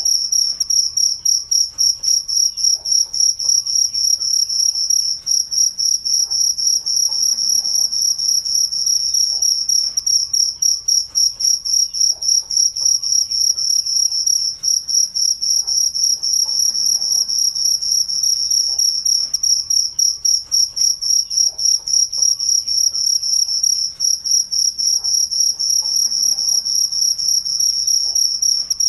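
Crickets chirping in a continuous, rapid high-pitched pulsing trill.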